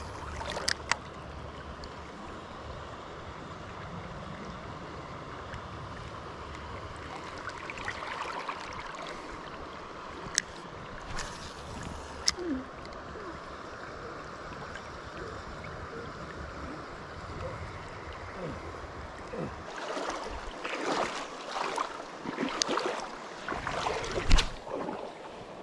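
River current rushing steadily around a wader standing in deep water. In the last few seconds, irregular splashes of someone wading through the current.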